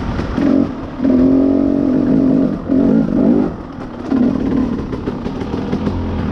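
Two-stroke dirt bike engine revved in about four throttle bursts, the longest lasting about a second, dropping back to a lower note in between.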